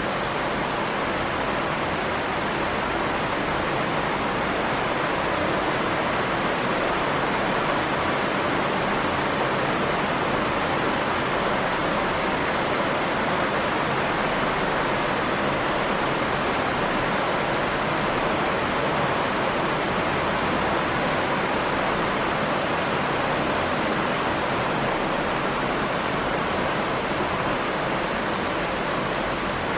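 Steady rain, an even hiss with no breaks or drops standing out.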